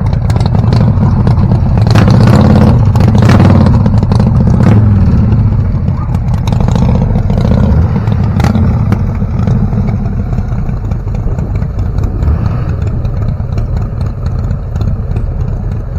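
Car engine running loudly, rising in a rev about two seconds in and easing back down after a few seconds to a steadier run.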